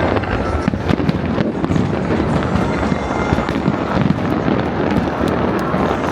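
A fireworks display going off continuously: dense crackling over a steady low rumble of bursts.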